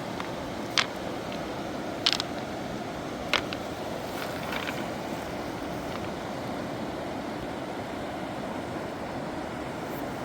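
Steady rush of a fast mountain river, with three sharp knocks in the first few seconds.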